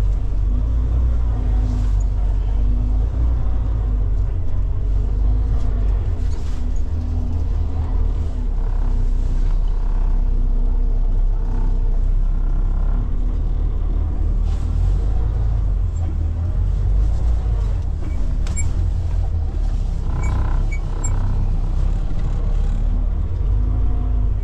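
Semi-truck's diesel engine running at low revs as the rig reverses slowly, heard from inside the cab as a steady, low-pitched rumble.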